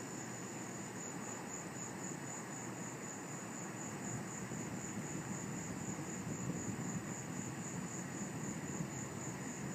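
Night insects, crickets, chirring steadily in a high, evenly pulsing band, over a low distant rumble of engine noise that swells slightly about halfway through.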